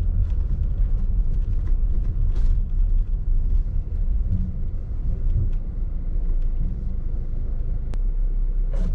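Steady low rumble of a car driving, heard from inside the cabin: engine and tyre noise with no other clear event.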